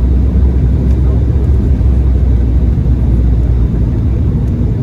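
Steady low rumble of a LOT Embraer 195 airliner on the ground just after landing, heard from inside the passenger cabin, with the engines and wheels running. It eases slightly near the end.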